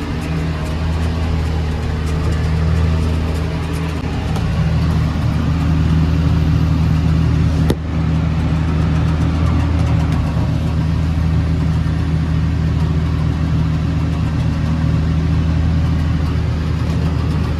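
John Deere 7420 tractor engine running steadily while pulling a round baler through hay, with one brief click about eight seconds in.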